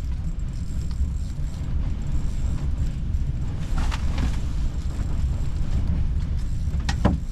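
Storm wind buffeting the microphone as a steady, gusting low rumble. A short sharp click comes near the end.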